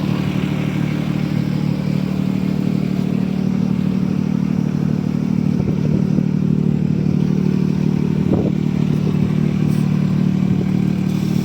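An engine running steadily at one unchanging pitch, with no revving or passing rise and fall.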